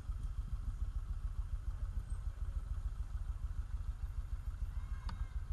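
Motorcycle engine running steadily as it is ridden, a low, even rumble. A brief sharp, high sound comes near the end.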